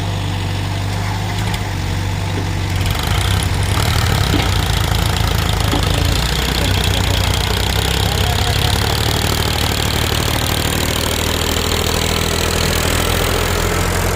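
Heavy diesel machinery engine running steadily. Its note grows louder and rougher about three seconds in, as if revving or working under load.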